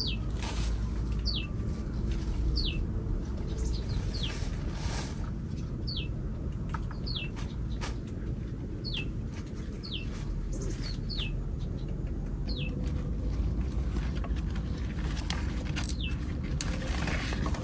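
A bird repeats a short, high whistle that slides downward, about once a second, with a few soft rustles and snaps as yardlong bean pods are picked from the vines.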